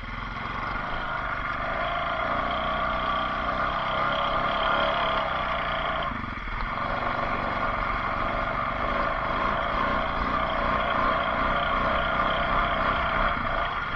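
Off-road vehicle engines running steadily, with a brief dip just after six seconds.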